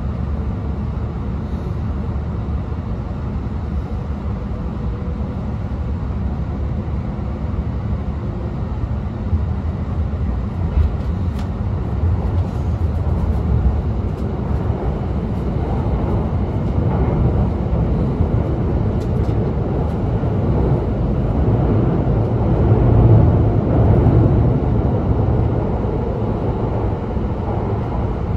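Interior running noise of an E2-series Shinkansen car: a steady low rumble of the train moving through a tunnel, swelling a little about two-thirds of the way through.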